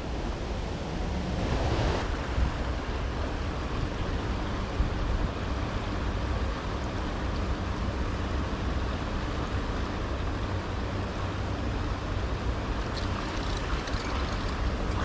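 Steady rushing noise of wind buffeting the microphone and moving river water, with a heavy low rumble and no distinct events.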